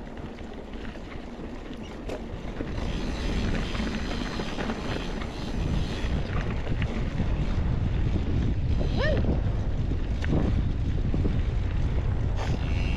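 Wind buffeting the microphone and mountain bike tyres rolling over dirt on a fast descent, getting louder about three seconds in and again near six seconds, with a few sharp clicks and a brief rising squeak about nine seconds in.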